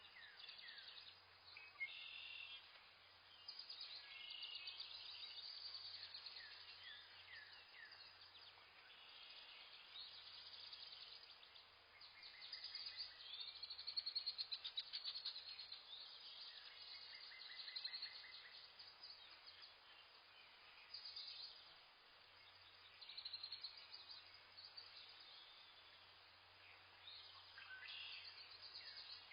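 Several birds chirping and trilling in a forest, faint, with many short high calls overlapping and a burst of rapid chirping about halfway through.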